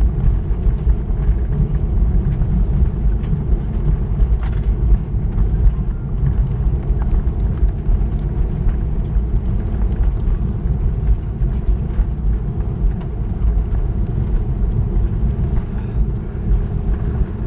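Steady low rumble of an Airbus A321neo rolling on the ground after landing, heard inside the cabin, with a few faint clicks.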